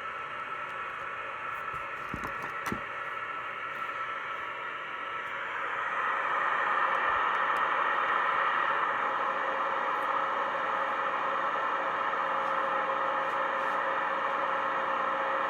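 Steady static hiss from a test loudspeaker driven by a car stereo head unit whose TDA7388 amplifier IC has just been replaced, showing the output stage is working. The hiss grows louder about six seconds in and then holds steady, with a couple of light clicks before that.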